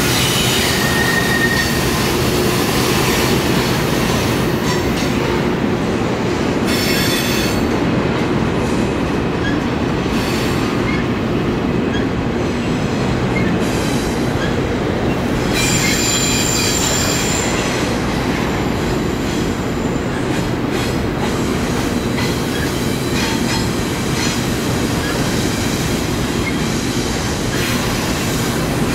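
Freight train cars rolling past, tank cars and then double-stack container cars, with a steady rumble and rail noise from the wheels. A few brief, high-pitched wheel squeals come from the curve, the longest about halfway through.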